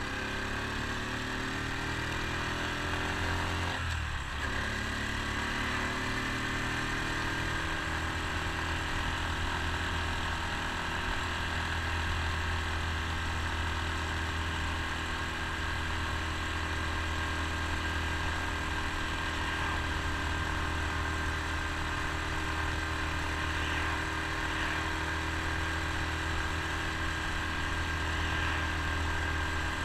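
Honda Super Cub C125's air-cooled single-cylinder four-stroke engine pulling away with rising pitch, a shift up about four seconds in, then running steadily at cruising speed, heard from the saddle with road and wind noise.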